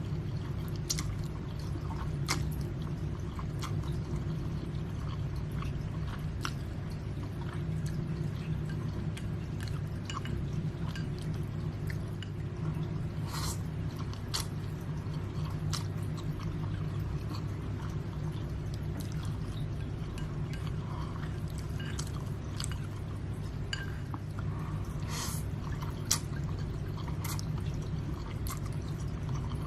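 Close-up eating sounds of spicy instant noodles: scattered wet slurps, smacks and chewing, with the odd click of a utensil, over a steady low background hum. A sharper click stands out near the end.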